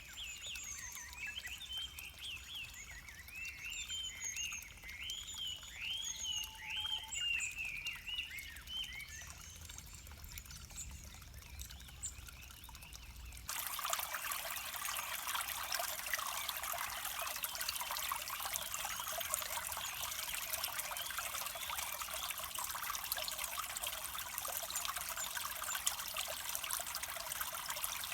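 Rapid, high chirping calls over a faint low rumble. About halfway through they cut off abruptly and are replaced by the steady rush of a flowing stream.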